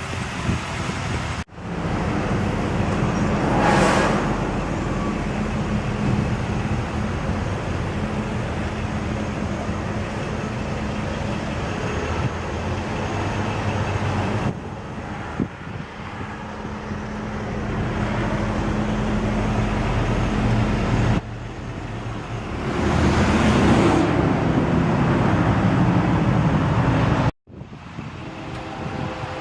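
Mercedes-Benz S500's 5-litre V8 idling steadily. The sound breaks off abruptly several times where the clips are cut together, and a rushing whoosh swells and fades twice, about 4 seconds in and again near 23 seconds.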